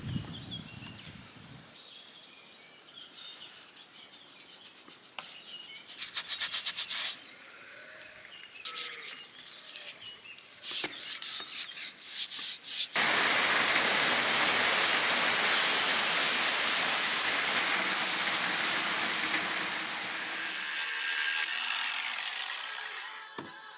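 Wood being worked by hand: short bursts of rapid rasping strokes, then about eight seconds of a loud, steady rushing noise. Birds chirp in the first few seconds.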